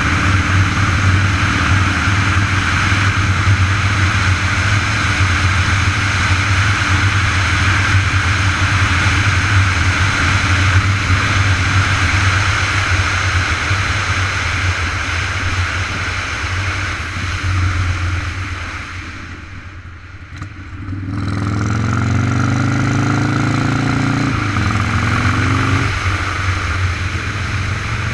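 A vehicle's engine running steadily under heavy wind noise while on the move. About two-thirds of the way through it goes briefly quieter, then the engine note rises as it speeds up again.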